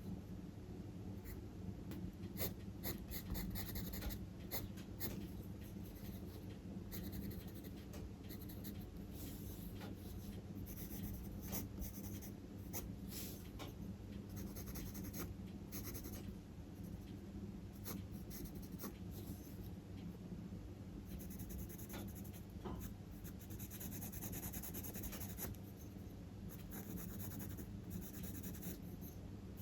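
Charcoal pencil scratching on drawing paper in many short, irregular strokes, some in quick runs, over a steady low hum.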